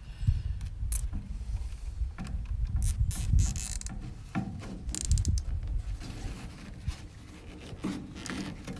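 Nylon zip tie being cinched around a flexible duct hose: quick runs of ratcheting clicks as the tail is pulled through the lock, densest about three and five seconds in. Under them is rubbing and handling of the plastic hose.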